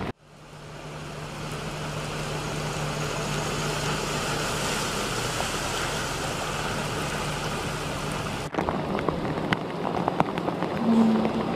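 Steady heavy rain and floodwater noise with a low, even vehicle-engine hum beneath it, fading in over the first couple of seconds. After an abrupt cut about eight and a half seconds in, the rain noise turns rougher, with scattered crackles and a brief low tone near the end.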